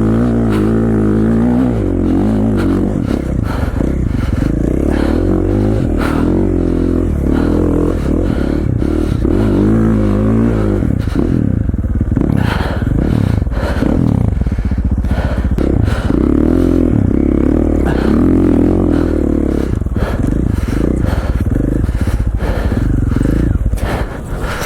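KTM 450 XC-F dirt bike's single-cylinder four-stroke engine running under load, its revs rising and falling again and again as the bike is ridden through deep snow, with scattered knocks and scrapes.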